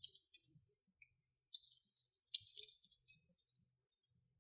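Slime being squished and stretched by hand, giving faint, scattered small wet clicks and pops.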